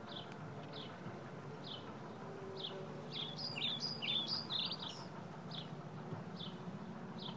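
Birds calling: one short falling chip note repeated about once a second, with a quick jumbled burst of song notes around the middle.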